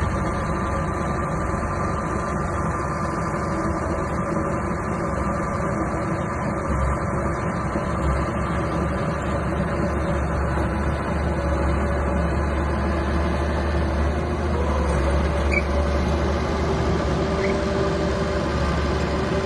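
Small bulldozer's diesel engine running steadily.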